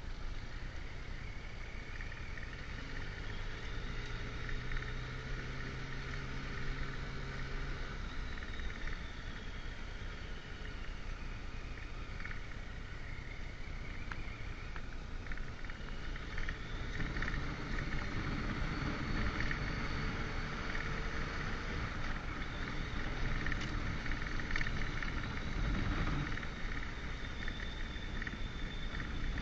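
Motorcycle engine running on the move, with wind rumbling on the microphone and a steady high buzz above it. The engine gets louder and fuller from a little past halfway.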